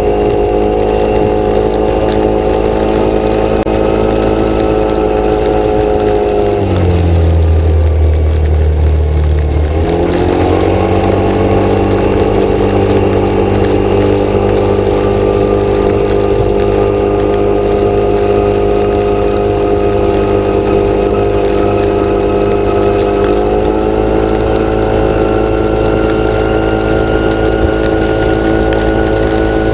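Engine running steadily. Its speed drops sharply about seven seconds in, then picks up again to the same steady pitch about three seconds later.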